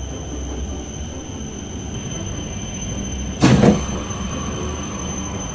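Tohoku Shinkansen train slowing into a station, heard from the door vestibule: a steady low rolling rumble with a thin high whine over it, and one sudden loud clunk about three and a half seconds in.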